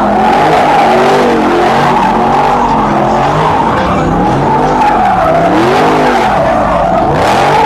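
A car spinning its tyres at a car meet: the tyres squeal steadily while the engine revs rise and fall over and over.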